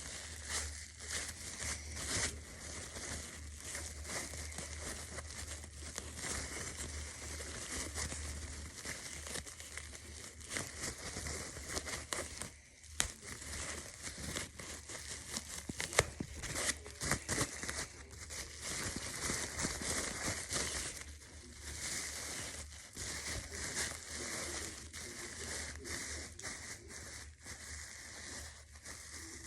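Continuous irregular crinkling and crackling of something being crumpled or handled, with a few sharper clicks, over a faint steady low hum.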